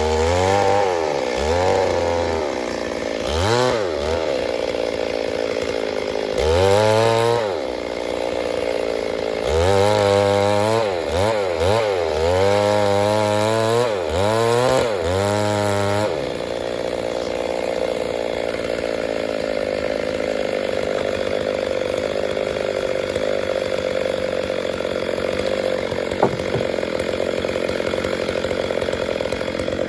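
Stihl MS 382 two-stroke chainsaw revved up and down over and over, then, about halfway through, held at one steady high speed.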